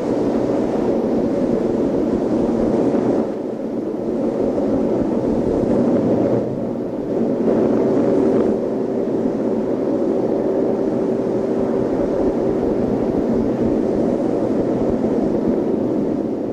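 A loud, steady rumbling drone with a faint hum in it, dipping slightly twice.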